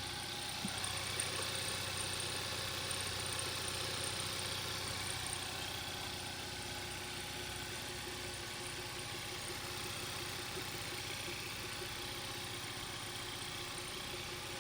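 Hyundai Veloster's 1.6 turbo G4FJ four-cylinder engine idling steadily, freshly reassembled after a teardown over a knocking noise.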